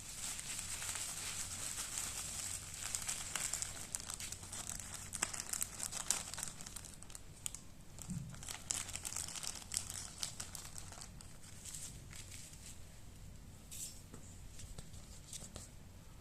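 Packaging crinkling and rustling as it is handled, in a run of quick crackles that is busiest in the first ten seconds and thins out after.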